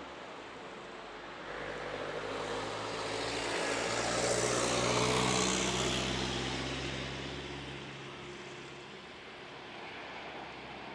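Jet airliner passing close by: the engine noise swells to a loud peak about halfway through, then fades away.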